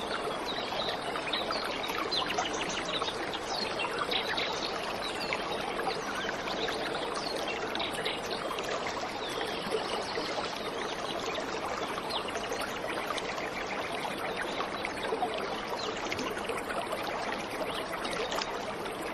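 Waterfall water running and splashing steadily, a dense, even rush with fine trickling detail.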